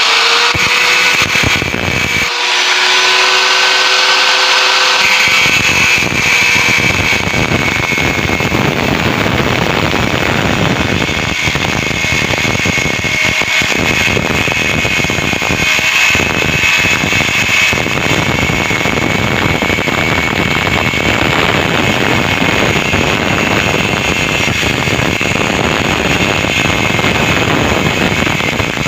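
Angle grinder running steadily while cutting into the steel shell of a hermetic refrigerator compressor, a steady high whine over a grinding rasp.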